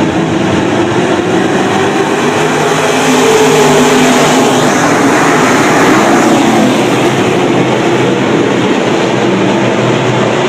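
Pack of race car engines running together at speed, growing a little louder a few seconds in.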